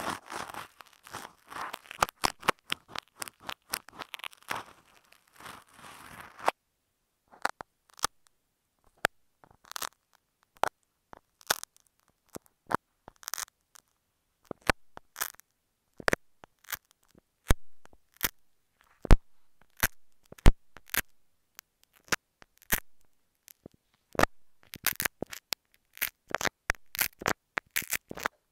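Close scratching and rubbing of an ear pick on an earphone microphone, which stops about six seconds in. Then a pushpin pokes at the mic, making separate sharp clicks and crackles that come faster near the end.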